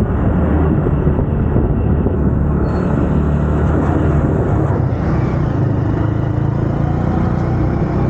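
Suzuki Gixxer 250 single-cylinder motorcycle engine running steadily under way, at an even pace with no big revving.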